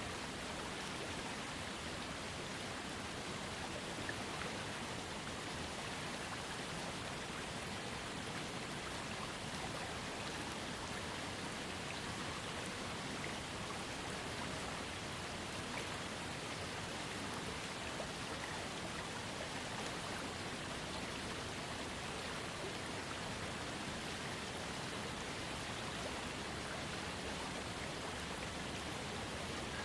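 Small waterfall on a trickling creek, water falling and splashing in a steady, even rush.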